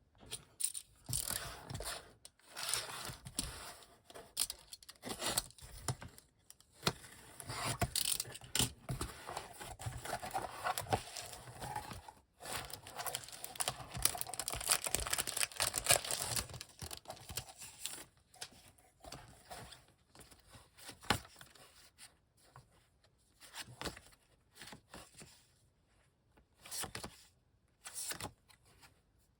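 Packaging wrap on comic books being torn and crinkled open by hand, in irregular rustling bursts that are busiest through the first half and thin out to scattered crackles near the end.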